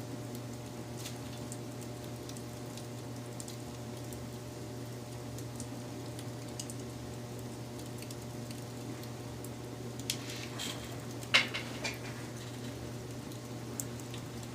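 Wood fire crackling: scattered small ticks and pops over a steady low hiss, with a louder run of sharp pops about ten to twelve seconds in.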